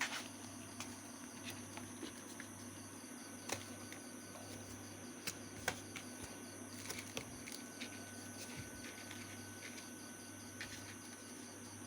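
Night insects chirping steadily in the background, with a low steady hum and a few light, sharp clicks or taps.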